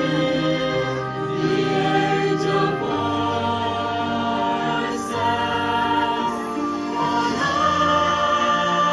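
A choir singing slow, sustained chords in a sacred style.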